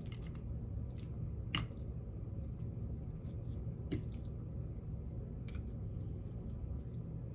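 Soft wet squishes and light clicks of utensils handling saucy ramen noodles, with three sharper clicks spread through, over a low steady hum.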